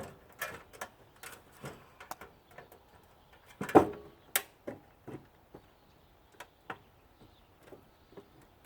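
Scattered light clicks and knocks of wires and metal parts being handled during the teardown of a central air unit, with one louder knock about four seconds in.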